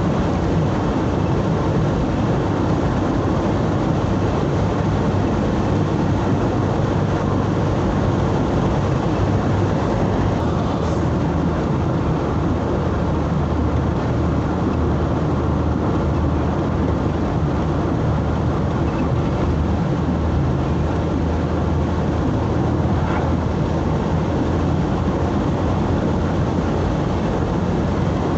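Steady engine hum and road noise of a vehicle driving along a highway, heard from inside the cabin.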